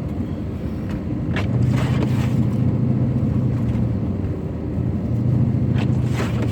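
Pickup truck in four-wheel drive accelerating, heard from inside the cab: a steady low engine hum that grows louder about a second and a half in and again near the end as the truck speeds up.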